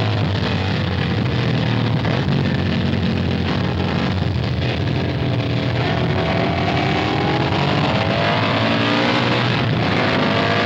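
Racing motorcycle engines running at speed, their pitch rising and falling as they pass, mixed with background guitar music.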